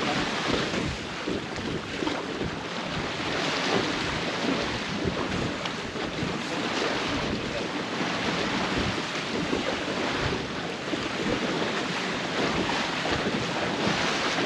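Wind buffeting the microphone over the rush and slosh of water along the hull of a small sailboat under sail, with no engine running.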